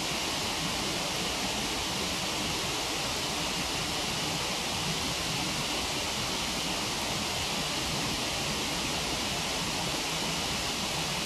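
Waterfall rushing steadily as an even hiss of falling water, with no change over the whole stretch.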